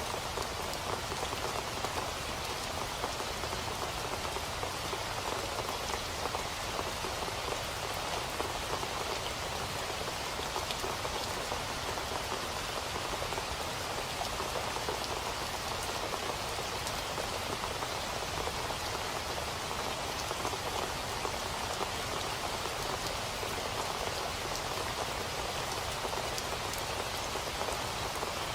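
Steady rain falling on a hard surface: a dense, even patter of drops with no change in strength.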